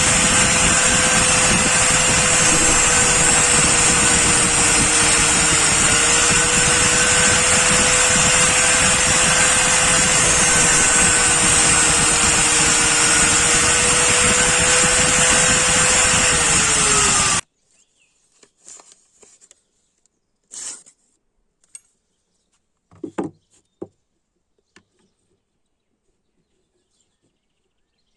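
An electric power tool runs steadily and loudly on metal, with a held whine, then cuts off abruptly. A few short clicks and knocks follow in near quiet.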